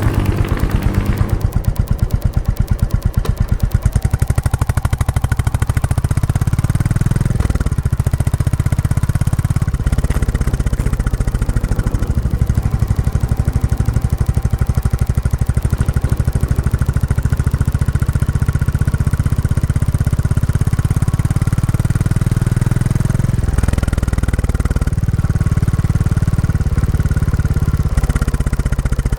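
Royal Enfield Classic 350's single-cylinder engine running through its stock exhaust while being ridden, a steady thumping note. The pitch shifts a few times, with gear changes or throttle changes around a quarter of the way in and again near the end.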